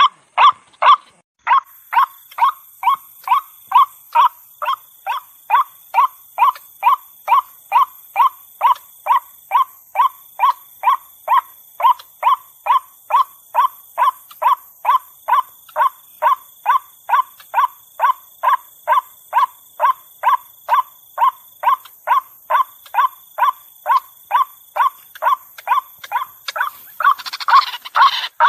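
White-breasted waterhen (ruak-ruak) calling over and over in a bird-lure recording, a short note about twice a second. Near the end the calls thicken into a rougher, overlapping chorus.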